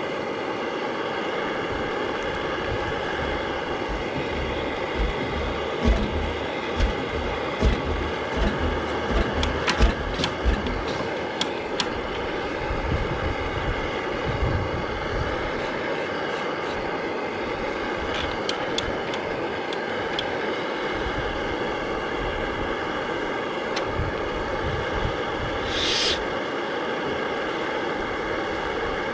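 McDonald PB two-stroke 'super diesel' engine running steadily, with a run of uneven low thumps about six to ten seconds in.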